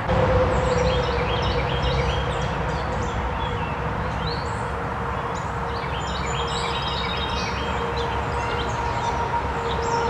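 Several birds chirping in short, quick notes over a steady low rumble and an unbroken hum.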